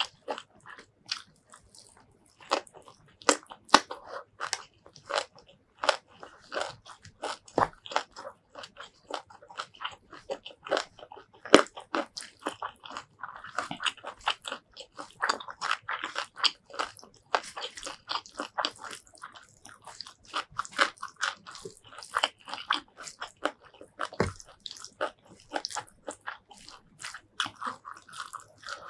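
Close-miked chewing and crunching from a mouthful of spicy shrimp curry with rice and stink beans, with quick irregular clicks several times a second.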